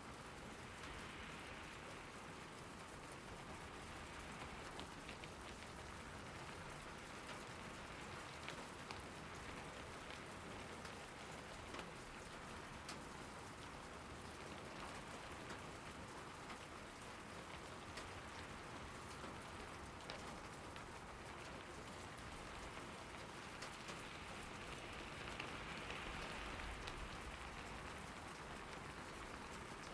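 Steady rain falling, a constant hiss with scattered sharper drop ticks, swelling slightly near the end.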